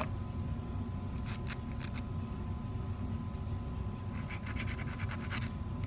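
Small hand file scraping on a piece of 14k gold: a few strokes about a second and a half in, then a quick, even run of short strokes from about four seconds in.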